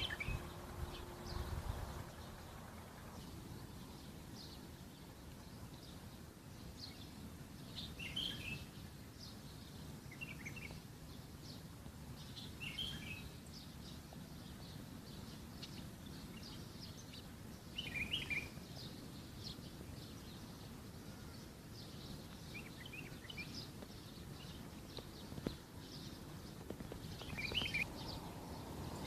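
Wild birds chirping on and off in short high calls over steady low outdoor background noise.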